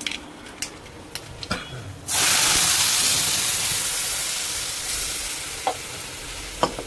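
A few light clinks of utensils, then about two seconds in a sudden loud sizzle as food goes into hot oil in a kadai on a gas stove, fading slowly as it is stirred.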